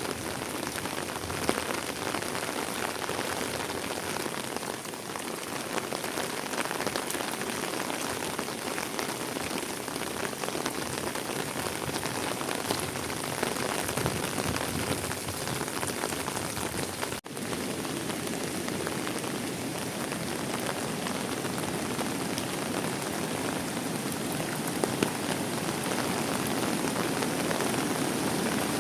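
Heavy rain falling steadily and hard, a dense even hiss with a momentary dropout about two-thirds of the way through.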